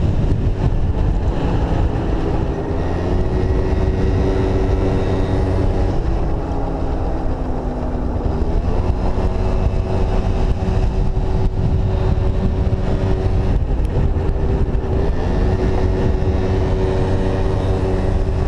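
Yamaha Zuma 50cc scooter engine running under throttle while riding, its pitch sagging about six seconds in and then climbing back up.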